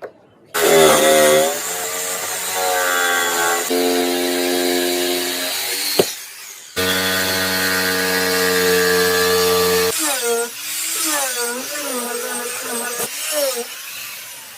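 Electric power saw cutting wood: the motor's whine drops in pitch as the blade takes the cut, runs steady, briefly falls away about six seconds in, then wavers up and down as the load changes.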